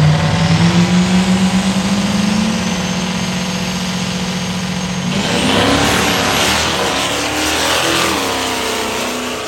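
Modified diesel pickup truck accelerating hard, its engine rising in pitch with a high turbo whistle over it. About five seconds in it becomes louder and rougher, then it fades away.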